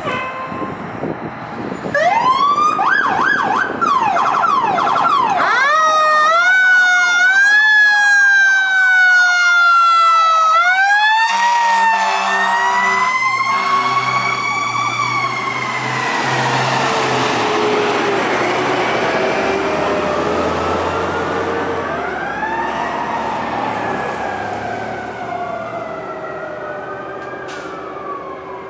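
Fire engine responding under sirens. An electronic siren yelps, then wails up and down. From about the middle, short low horn-like blasts are followed by a Federal Q mechanical siren winding up and slowly coasting down under the Detroit diesel engine, fading as the truck passes away.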